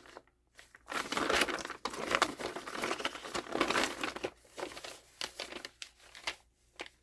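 Crinkling and rustling of an emptied plastic grass seed bag being handled and pressed onto a journal page, steady for about three seconds from about a second in, then softer scattered rustles.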